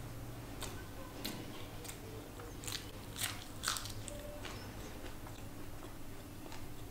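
Close-miked chewing and crunching of food, with a cluster of sharper crunches about three seconds in.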